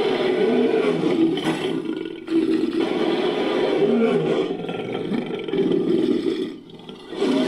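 Designed monster roar sound effect, layered from animal and movie-creature roars: two long, deep roars, the first breaking off about two seconds in and the second running on for about four seconds more.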